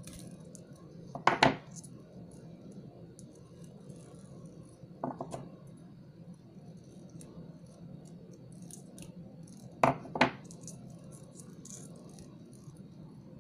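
Small, sharp clicks of metal pliers and beads being handled, in pairs about a second in and near ten seconds, with a short cluster of clicks in between.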